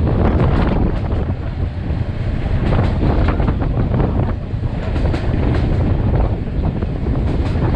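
Passenger train running, heavy wind buffeting the microphone, with scattered clattering.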